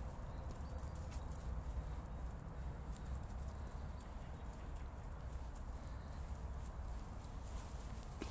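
Footsteps of a person walking, over a steady low rumble, with one brief high chirp about six seconds in.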